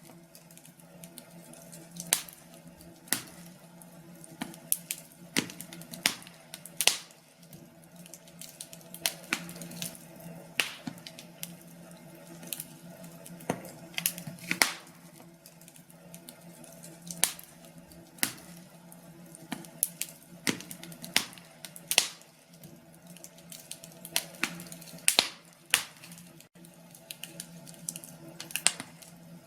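Wood fire crackling, with irregular sharp pops and snaps a few every second or two over a soft steady hum.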